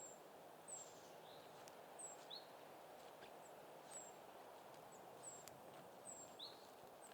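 Faint small-bird calls: short high chirps, some sliding down and some rising, about one a second, over a steady soft hiss of outdoor ambience.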